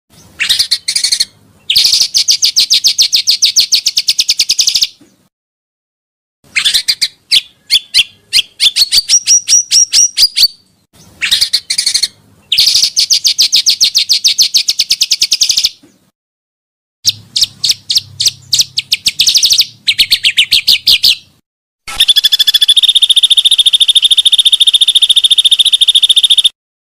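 Pancawarna (silver-eared mesia) song: loud phrases of fast, rapidly repeated notes broken by short pauses, with a longer, steadier trill near the end.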